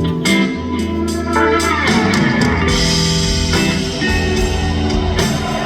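Live rock band playing an instrumental passage: electric guitar with bending, sliding notes over bass and drums.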